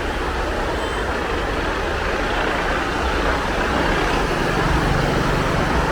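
Steady vehicle and road noise with a deep low rumble; a low steady hum joins about four seconds in.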